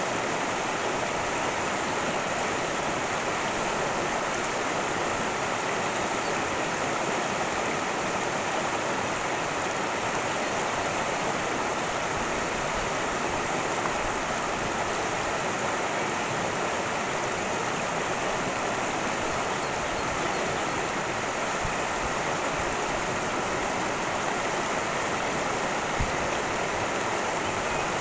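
Cascading stream rushing steadily over rocks, an even, unbroken water noise, with one brief low bump near the end.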